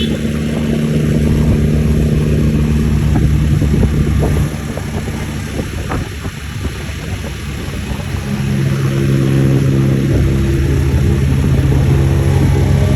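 A motor vehicle's engine running steadily, easing off about four seconds in and pulling harder again about eight seconds in.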